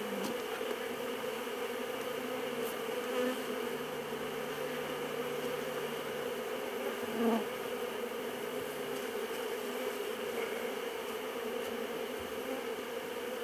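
Swarm of honeybees buzzing steadily around an opened hive, a dense hum with a few small knocks mixed in. The bees are stirred up from the hive being taken apart.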